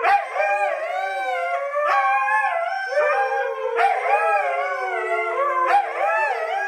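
Several dogs howling together in long, wavering, overlapping notes, the crying howl of dogs left home alone.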